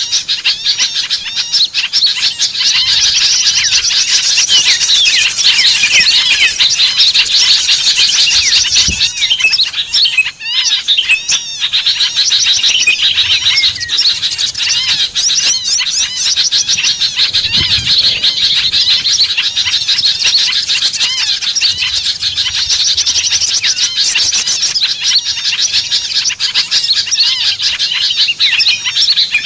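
Dense, loud, continuous chatter of many small birds chirping and twittering at once, a lure recording meant to draw small birds in. It thins briefly about ten seconds in, then carries on.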